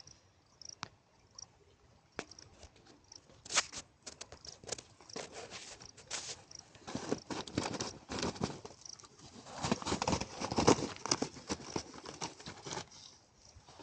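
A run of irregular crackles and rustles, sparse at first, growing dense after a few seconds and loudest about ten seconds in, then thinning out.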